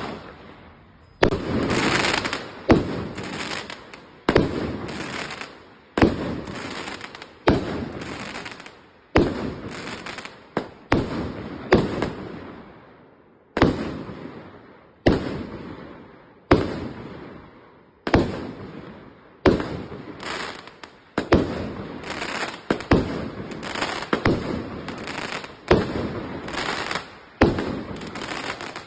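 A 36-shot, 25 mm firework cake firing its shots one after another, a sharp launch bang about every second, each followed by the shell bursting and a fading crackle.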